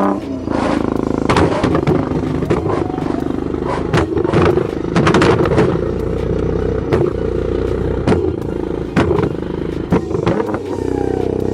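A car engine running at a steady idle, broken by irregular sharp cracks and bangs.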